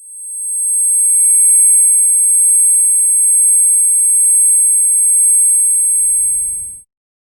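A steady, very high-pitched electronic tone made of two close pitches with fainter lower overtones. It swells in over about a second, holds steady and loud, and cuts off suddenly near the end.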